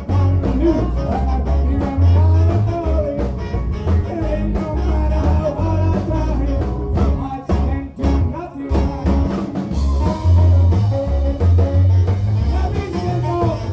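Live band playing a song with a steady beat, strong bass, drums and singing, recorded on a mobile phone; the cymbals get brighter about ten seconds in.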